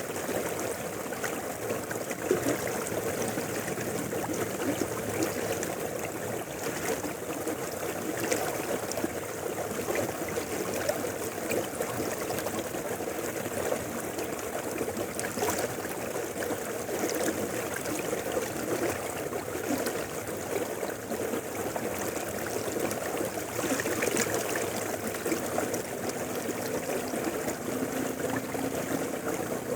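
Mountain river flowing steadily over rocks, a continuous rushing babble with small splashes and trickles.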